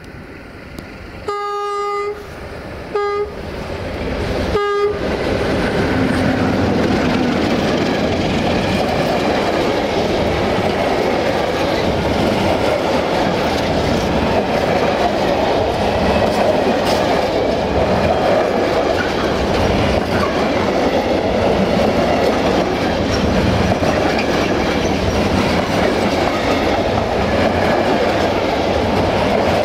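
A 060-DA diesel-electric locomotive sounds its horn three times, one longer blast then two short ones, as it approaches. Its Sulzer diesel engine grows louder as it passes, then the long rake of covered freight wagons rolls by with a steady rumble and clickety-clack of wheels over rail joints.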